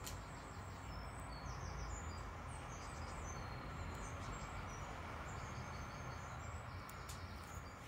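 Small birds chirping and trilling over and over in short high notes, over a steady outdoor background hiss, with a couple of faint clicks about seven seconds in.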